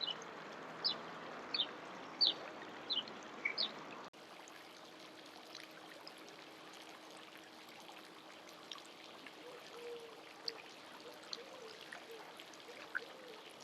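Short, high bird chirps over a pouring, trickling water sound. About four seconds in it cuts suddenly to a fainter outdoor background with a few scattered chirps.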